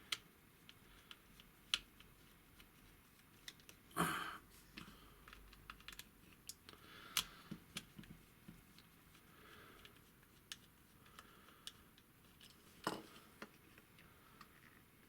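Faint, scattered clicks and taps of small plastic toy parts being handled and pried apart as a Transformers figure's hip cover is worked loose, with a few sharper clicks about 4, 7 and 13 seconds in.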